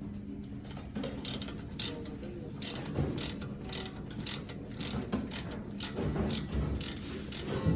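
Ratcheting service valve wrench clicking in irregular runs as a refrigerant valve is worked open, over a steady low hum, with a louder knock near the end.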